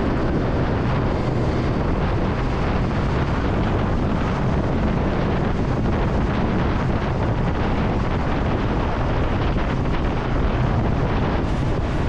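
Motorcycle riding at a steady speed, the engine's low running sound mixed with wind buffeting the microphone.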